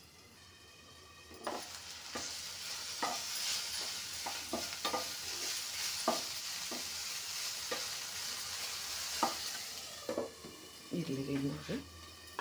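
Cauliflower florets sizzling in oil in a non-stick frying pan while they are stirred with a spatula that knocks and scrapes against the pan a dozen or so times. The sizzle grows louder when the glass lid comes off about a second and a half in. Near the end the lid goes back on with a few knocks and a short low rattle.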